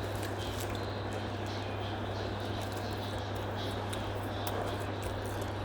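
A steady low hum under even background hiss, with faint small clicks and mouth sounds of someone quietly eating a breakfast sandwich.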